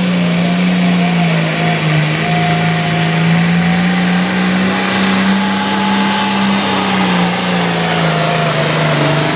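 International Harvester 1066 Black Stripe pulling tractor's turbocharged diesel running flat out under load while it drags the weight sled. The engine pitch holds nearly steady, with slight sags as the load bites, and a higher whine rides above it.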